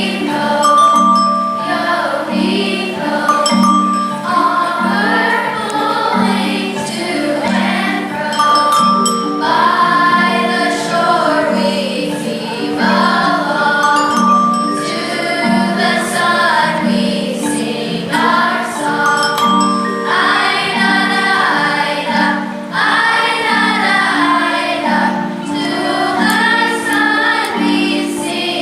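Choir singing a melody, accompanied by mallet percussion playing a steady repeating low figure.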